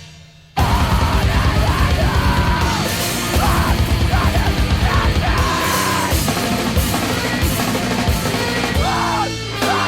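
Loud heavy rock band music with yelled, screamed vocals over a full band and pounding drums. The band breaks off for about half a second at the start, then comes back in at full force.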